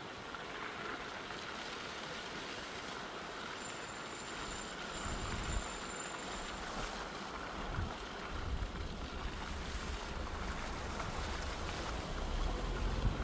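Steady rush of air noise, with wind buffeting the microphone in low rumbles from about five seconds in, growing stronger near the end.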